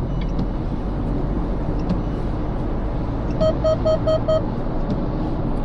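Steady road and engine noise of a Proton S70 heard from inside the cabin while driving, with a quick run of five short electronic beeps about three and a half seconds in.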